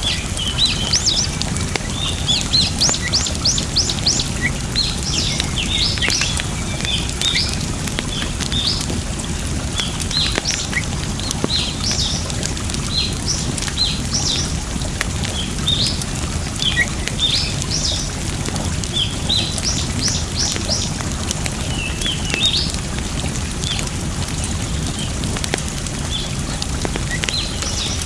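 Small birds chirping again and again over a steady rush of water, with occasional crackles from a wood fire.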